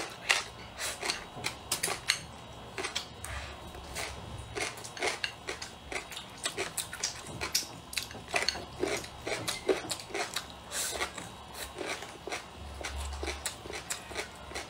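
Close-up eating sounds: chewing and mouth smacks on a mouthful of food, with chopsticks clicking against the bowl, a dense run of short, irregular clicks.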